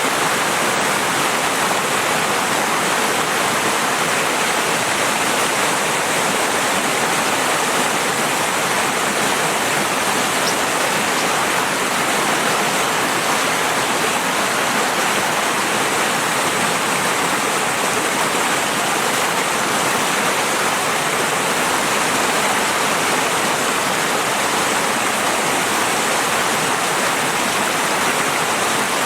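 River water flowing and rushing, a steady even wash without breaks.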